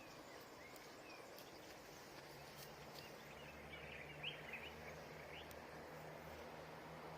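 Faint outdoor ambience with a few quick bird chirps clustered in the middle. From about two seconds in, the low steady hum of a motor vehicle engine joins in.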